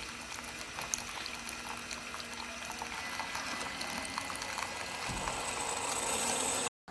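Keurig K-Mini single-serve pod brewer dispensing hot water into a cup: a steady watery hiss of pouring liquid with scattered small clicks. It grows louder over the last couple of seconds, then breaks off suddenly near the end.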